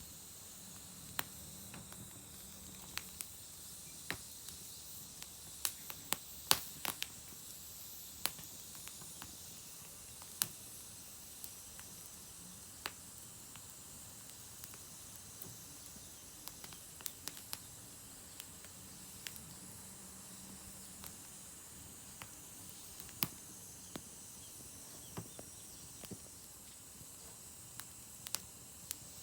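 Wood fire burning in a small fire stand, crackling with irregular sharp pops and snaps over a soft steady hiss.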